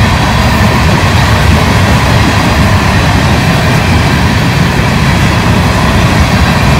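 Herzog ballast hopper cars of a freight train rolling past close by, a loud steady rumble of steel wheels on the rails.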